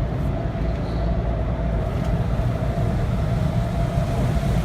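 Automatic car wash machinery working over the car, heard from inside the cabin: a steady low rumble with a constant whine.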